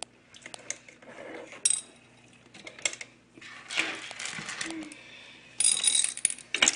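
M&M's candies clattering in and out of a small toy dump truck on a tabletop: scattered light clicks, then a dense rattling clatter near the end as a load of candy tips out.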